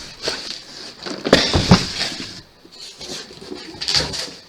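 Cardboard boxes being handled, with scattered taps and scrapes and a louder bump and rustle about a second and a half in.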